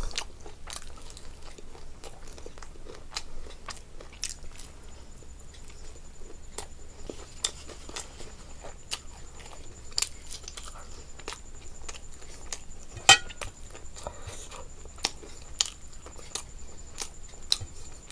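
A person chewing and biting food, with wet mouth clicks and crunches scattered throughout and one sharp, louder click about thirteen seconds in.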